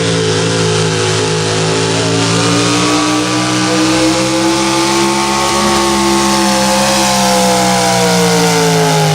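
Super Stock 4x4 pulling truck's engine running hard at high revs under load. Its pitch climbs slowly for about six seconds, then drops off near the end.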